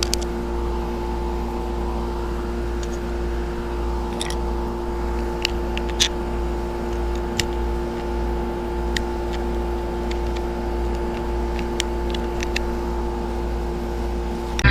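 Steady electrical or mechanical hum with a low rumble, broken by a few light clicks and taps.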